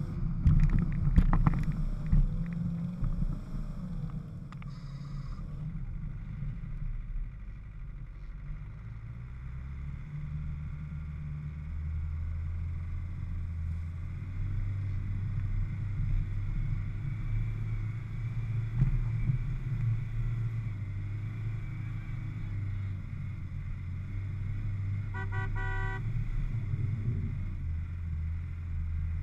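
Off-road 4x4 engine running steadily in low gear, heard from a hood-mounted camera, with loud knocks and clunks from the vehicle bouncing over rough ground in the first couple of seconds. Near the end a vehicle horn gives a short burst of rapid beeps.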